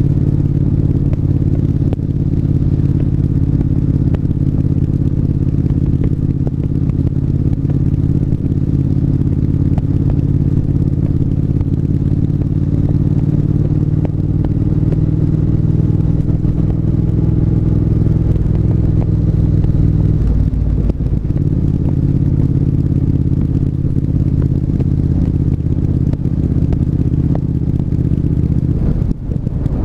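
Triumph 1200 cc parallel-twin motorcycle engine running at steady riding revs, heard from the rider's position with some wind noise. The engine note changes briefly about two-thirds of the way through and dips once more near the end.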